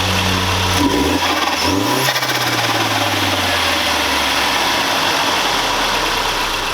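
Audi 1.8T turbocharged four-cylinder with an open aFe cone air filter, blipped twice in quick succession, about one and two seconds in. After the second blip the revs sink slowly back toward idle, under a steady rush of intake noise.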